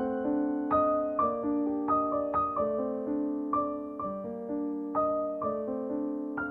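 Background piano music: a slow, gentle melody of single notes and soft chords, each struck note ringing and fading.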